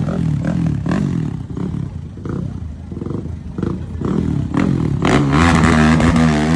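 Car engine revving hard. It eases off a little mid-way, then climbs louder again from about five seconds in.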